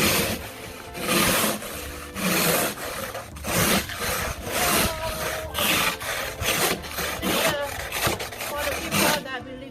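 Snow being scraped and brushed off a car in repeated strokes, about one a second.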